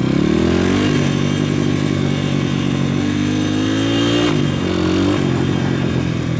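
PitPro 140cc pit bike's single-cylinder four-stroke engine under throttle. The revs rise in the first second, climb steadily again, then drop sharply about four seconds in and settle lower.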